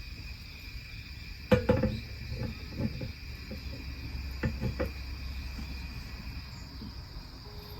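Steady chorus of autumn insects such as crickets chirping, with a few short knocks and clatters of things being handled, the loudest about one and a half seconds in and a pair more a few seconds later.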